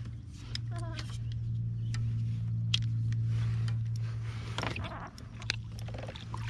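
A steady low motor-like hum, swelling a little in the middle, with scattered light clicks and knocks.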